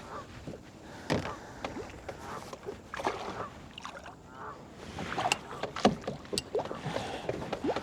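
Irregular knocks and clicks of gear being handled in a fishing kayak.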